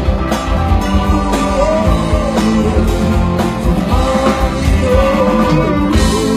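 Rock music with a singer over drums and guitar, played live at a concert or karaoke; the drum beat stops just before the end while the chords ring on.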